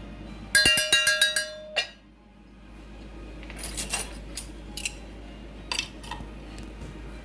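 A quick run of bright clinks with ringing tones lasting about a second, followed by scattered lighter clicks and knocks.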